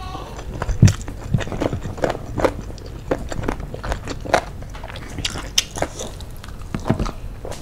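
Close-miked chewing and mouth sounds of a person eating sauce-coated fried chicken and rice by hand: irregular wet clicks and smacks, the sharpest about a second in.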